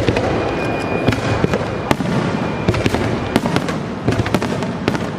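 Fireworks going off: a rapid, irregular string of sharp bangs and cracks over a continuous rumbling din.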